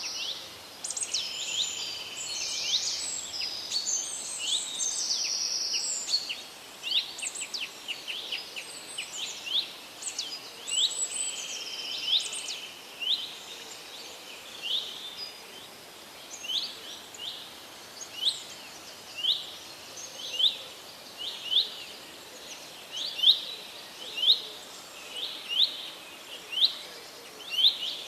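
Birds chirping: many high calls overlapping for the first dozen seconds, then one bird repeating short, sharp chirps about once a second over a faint background hiss.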